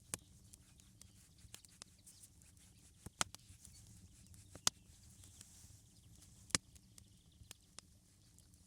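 Scattered sharp clicks and snaps, a few louder ones standing out about three, four and a half and six and a half seconds in, over a faint low background.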